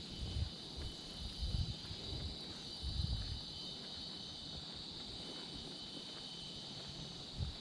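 Steady high-pitched chorus of forest insects, with a few low thuds in the first half and one more near the end.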